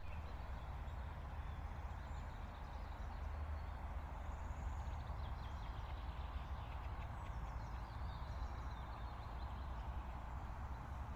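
Birds singing in a spring forest: many faint, scattered chirps and short whistles over a steady low rumble.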